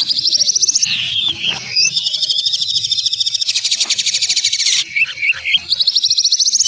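A songbird sings fast, dense trills of harsh, high notes, with no pause. Around five seconds in, it breaks briefly into a few short slurred whistles before the rapid trill resumes.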